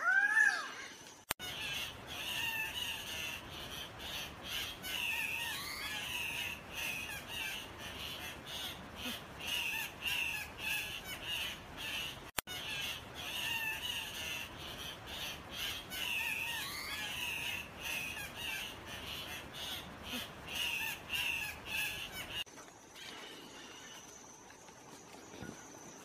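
Guianan cock-of-the-rock calling: a loud squawk at the start, then a long run of harsh, repeated squawking calls. The calls stop a few seconds before the end, leaving only a faint thin high whine in the background.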